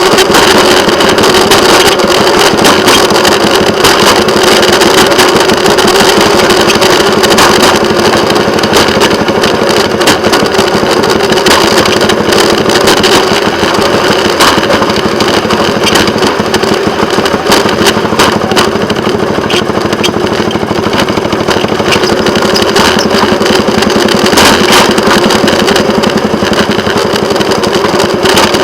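Railway motorcar (track speeder) running along the rails: its small engine drones steadily, with irregular clicks and rattles from the wheels and car on the track.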